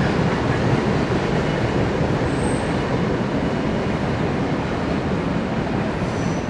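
Freight train's cars rolling across a steel girder bridge overhead: a steady, heavy rumble of wheels on rail. It eases off near the end as the last car clears the bridge, with a brief faint high wheel squeal about two and a half seconds in.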